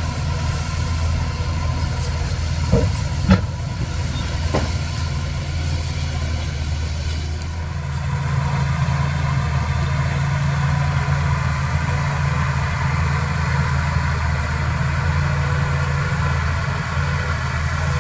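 Heavy diesel engine of earthmoving equipment running steadily, with three short knocks about three to five seconds in. The engine note rises slightly around halfway.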